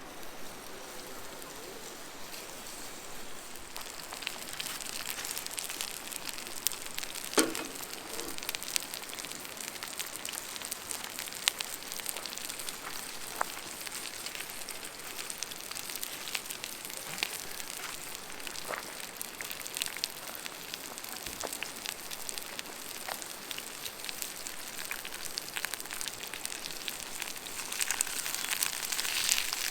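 Paella sizzling in a pan over a campfire, a steady hiss with crackles and pops. There is one brief, sharper sound about seven seconds in.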